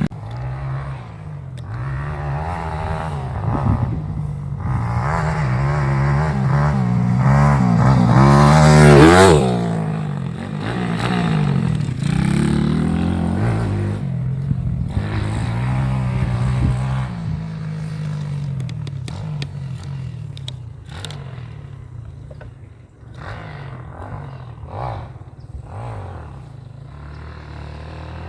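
X Pro Sail 150cc four-stroke single-cylinder pit bike engine revving up and down as the bike is ridden. It climbs to its loudest and highest about nine seconds in, then drops back and grows quieter toward the end.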